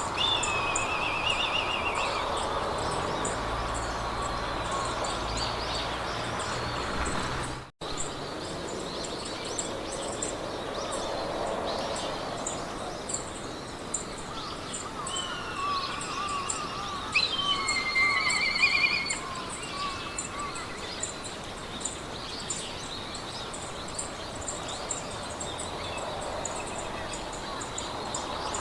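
Meadow ambience: wind hissing through grass, with small songbirds singing short trills and a steady rapid high ticking. The sound cuts out for an instant about a quarter of the way in.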